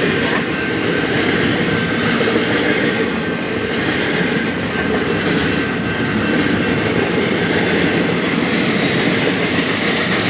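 BNSF intermodal freight train's cars rolling past, a steady loud rumble and clatter of steel wheels on the rails.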